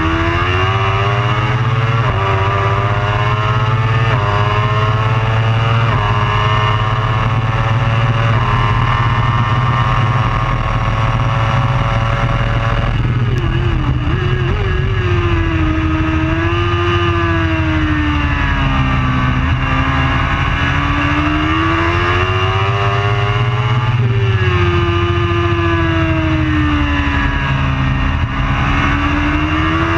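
Racing superbike engine accelerating hard through the gears, its pitch climbing and dropping back at each upshift about every two seconds. From about halfway it falls and rises again in long sweeps as the revs come down and build back up.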